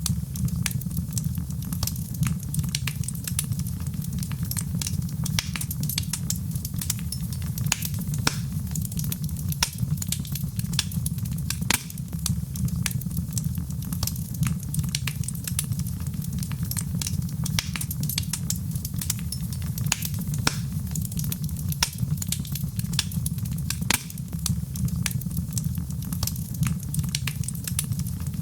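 Wood fire burning in a fireplace: a steady low rumble of the flames with many small, quick crackles and pops throughout.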